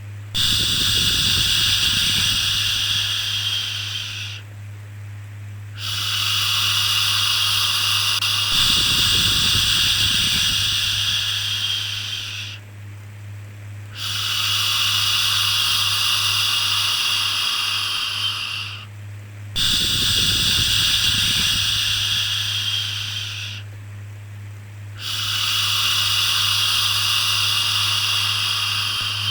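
Long shushing 'shhh' sounds, about five of them, each lasting four to six seconds with a short break between. A steady low hum runs underneath.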